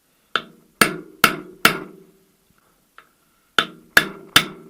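Hammer blows on a seal driver, tapping the input shaft oil seal into a VAZ 2108–2115 manual gearbox housing: two runs of four sharp knocks, each ringing briefly, about two a second.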